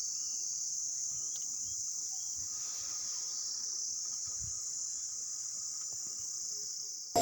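Insects chirring in a steady, continuous high-pitched drone, as from crickets or cicadas in an orchard.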